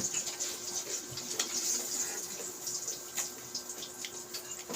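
Raw carrot being chewed close to the microphone: wet crunching with irregular crisp clicks.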